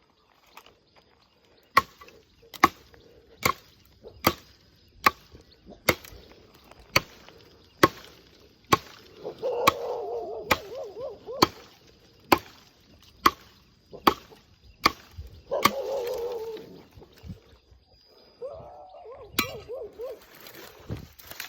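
Steady chopping of a blade into the wood of a fallen lead tree (Leucaena), sharp strokes at about one a second that stop about 15 seconds in, with one more stroke near the end. A wavering animal call sounds three times between the strokes.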